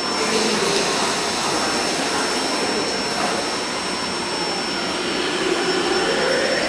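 Electric commuter train running at the platform with a steady rush of noise; its motor whine starts rising in pitch near the end as it picks up speed.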